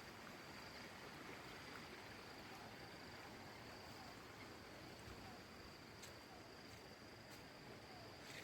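Faint outdoor ambience: a steady hiss under a thin, steady high-pitched insect drone, with a few faint clicks near the end.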